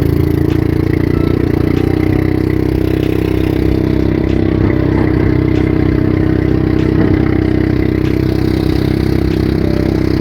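A vehicle engine running loud and steady: an even, deep drone that holds one pitch without revving.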